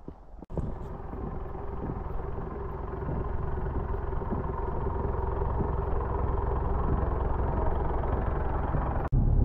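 A vehicle driving, its engine and tyres running steadily and slowly getting louder, with a faint steady hum over the road noise.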